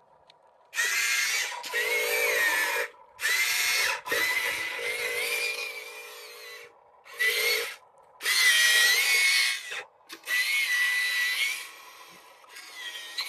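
A small electric motor whining in repeated bursts of about a second each, stopping and starting again several times.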